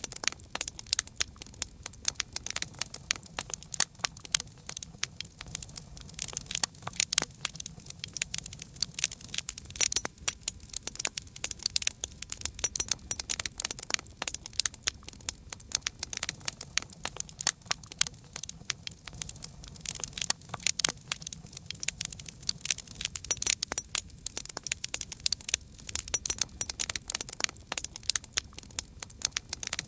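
Campfire crackling steadily, with many small sharp pops and snaps of burning wood over a faint low rumble.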